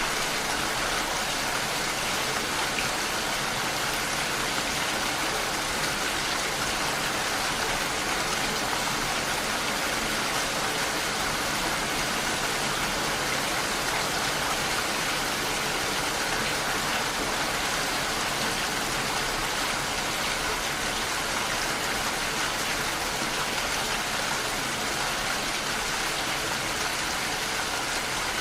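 Steady rain falling, an even hiss of many drops with no separate events.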